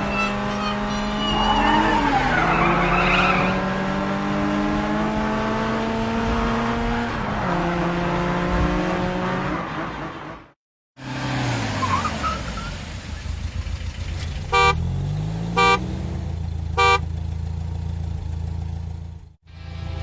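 Cartoon car sound effects: engines running and revving, with pitch rising and falling. The sound breaks off briefly about halfway, and then a car horn honks three short times, about a second apart.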